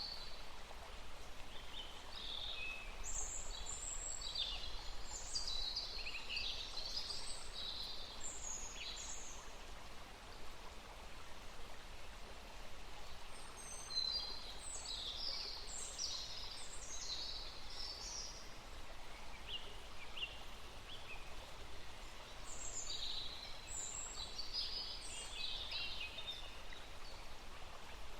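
Small songbirds singing in three bouts of quick high chirps and warbled notes over a steady background hiss.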